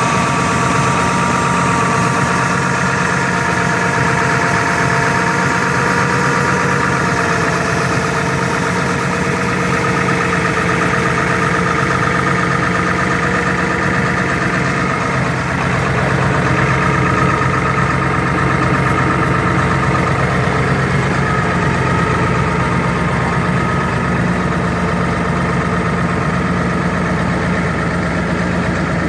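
A 2002 F-350's 7.3 L Power Stroke V8 turbo diesel idling steadily during a cold start at about 6 degrees, not plugged in, after one glow plug cycle.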